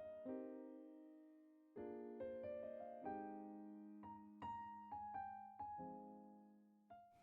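Soft background piano music: single notes and chords struck at a slow, gentle pace, each ringing out and fading.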